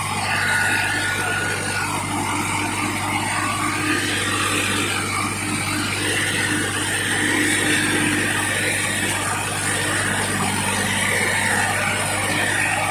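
Swaraj 960 FE tractor's diesel engine running steadily.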